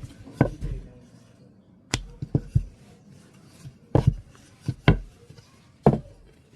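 Knife chopping on a wooden cutting board: a handful of separate sharp knocks at an uneven pace, some in quick pairs.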